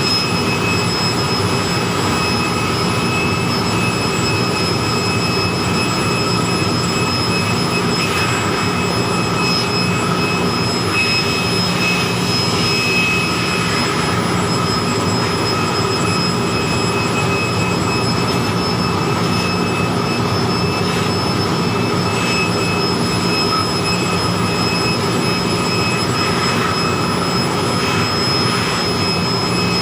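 Handheld electric air blower running steadily, a rush of air with a high motor whine, blowing dust out of an HVAC air handler's pre-filter.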